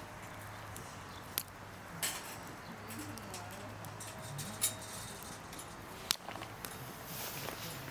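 A wood campfire giving a few sharp pops, about four over several seconds, over a steady low hum.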